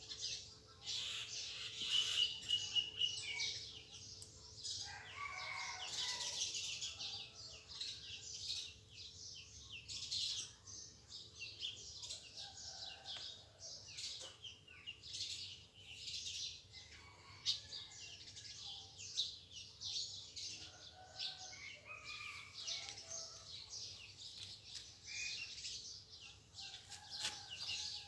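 Several wild birds chirping and calling together, a dense run of short high chirps with some warbled phrases and a held whistled note about two seconds in, over a faint steady hum.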